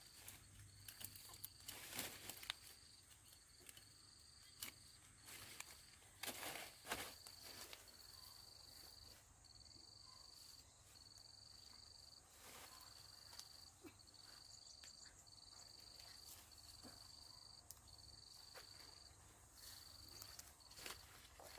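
Faint insect chirping: a steady series of high-pitched chirps, each under a second long with short gaps between them. Occasional light rustles and clicks come through as well.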